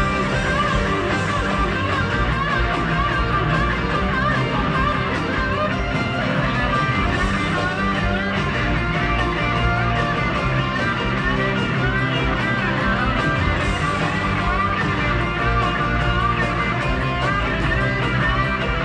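Rock music: a fast, winding electric guitar lead over a full band with steady bass and drums.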